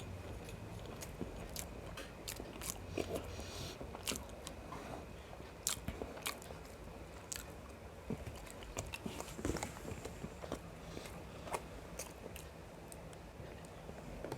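A person chewing and eating biryani with mutton gravy close to the microphone: irregular wet mouth clicks and small crunches.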